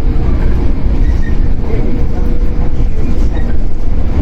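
Shinano Railway 115 series electric train running, heard from inside motor car KuMoHa 115-1013: a steady, loud rumble of wheels on rail and the car's MT54 traction motors, with a faint steady hum held throughout.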